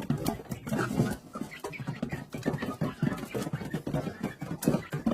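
A baby chick moving about, with many quick taps and scuffles and a few short calls.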